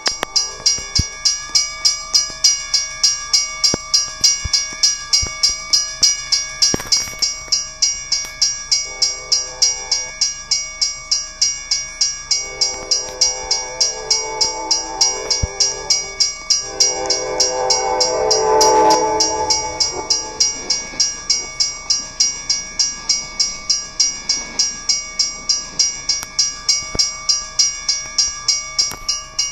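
Norfolk Southern locomotive 7557 passing with a train. Its air horn sounds a short blast about 9 s in, then two long blasts from about 12 to 20 s, loudest near 19 s. Under it all a bell rings steadily at about three strokes a second.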